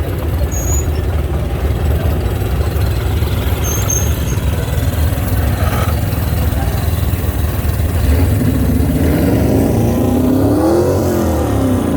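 Parade vehicle engines running with a steady low rumble. Near the end one engine revs up and back down.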